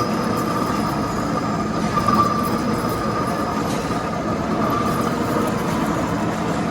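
Metal lathe running, a steady mechanical rumble with a thin whine that comes and goes.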